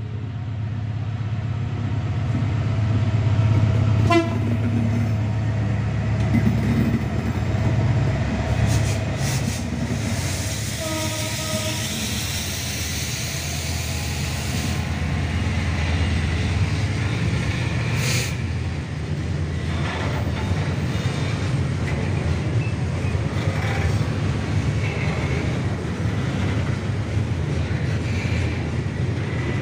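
Long diesel-hauled coal freight train passing close by: the locomotive's engine drone, loudest in the first few seconds, gives way to the steady rumble and clatter of the coal wagons' wheels on the rails.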